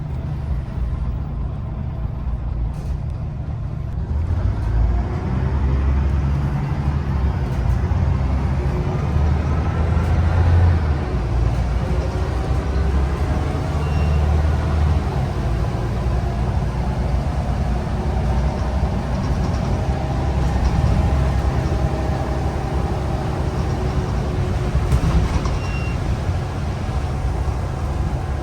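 Scania L94UB bus's nine-litre five-cylinder diesel engine running with a steady low rumble. About four seconds in it builds up, with a whine rising in pitch as the bus gathers speed, and it rises again later on.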